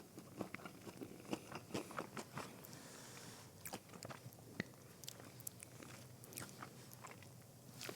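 Close-miked chewing and biting of a crispy breaded fried mozzarella stick: quiet, irregular crunches and wet mouth clicks scattered throughout.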